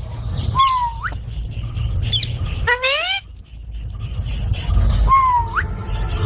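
A parrot giving three loud calls: the first and last start high, dip and then sweep sharply upward, and the middle one is a harsher call rising in pitch. A steady low rumble runs underneath.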